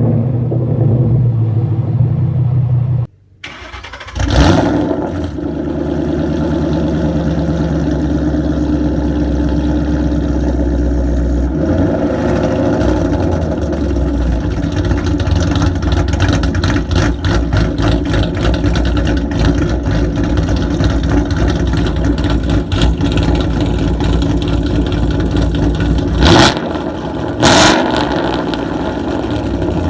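Fifth-generation (2011–2014) Ford Mustang engine being started: a short crank, then it catches with a loud flare and settles into a fast idle that drops lower about twelve seconds in. There are two quick revs near the end. In the first three seconds a different engine is idling, and it cuts off suddenly.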